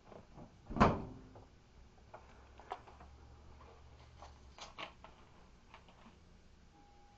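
A single loud knock about a second in, followed by a few light clicks and taps.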